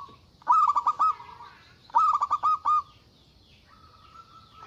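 Zebra dove (perkutut) song: two phrases of quick, rhythmic coos about a second and a half apart, then a long drawn-out note running into the start of the next phrase near the end.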